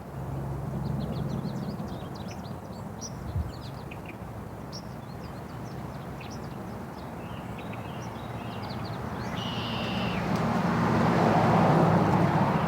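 Small birds chirping in quick, short high calls, over a steady low rumble that swells and is loudest near the end, like a passing vehicle.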